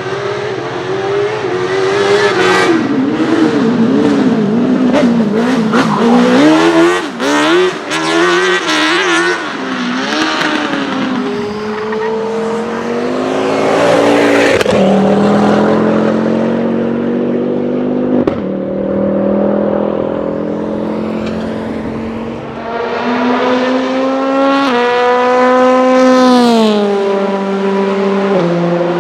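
A race car engine revving hard, its note wavering up and down at first. It then accelerates through the gears, the pitch climbing and dropping sharply at each upshift, and near the end it rises once more before falling away.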